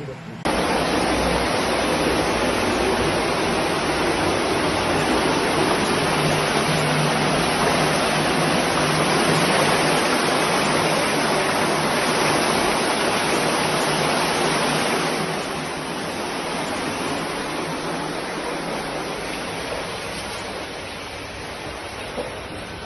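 Heavy rain pouring down as a steady, loud rush. It starts suddenly about half a second in and drops somewhat in level about fifteen seconds in.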